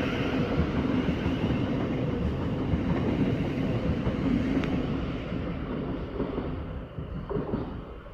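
Class 700 electric multiple unit pulling out of the platform, its running noise steady at first and then fading away over the last few seconds.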